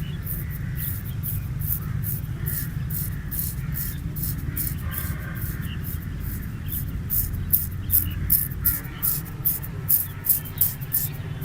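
Razor scraping through chest hair and over skin in quick, short strokes, about three or four a second, over a steady low hum; the strokes get louder about seven seconds in.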